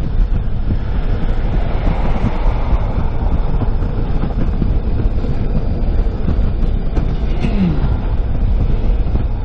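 A car driving at road speed, heard from inside: a steady deep rumble of tyres, engine and wind, with a brief falling tone about three-quarters of the way through.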